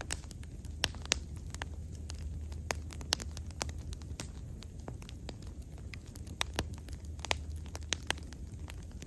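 Wood bonfire crackling: sharp, irregular pops and snaps, a few of them louder, over a low steady rumble.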